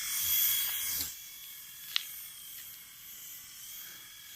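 Infrared-induction toy helicopter's small electric motor and rotors whirring with a steady high buzz, loudest in the first second. A sharp click about two seconds in.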